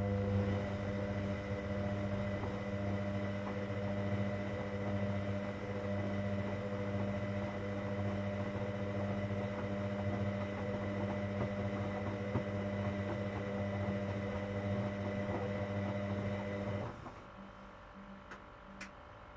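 Washing machine drain pump running with a steady electrical hum, then cutting off abruptly about seventeen seconds in, followed by a couple of faint clicks.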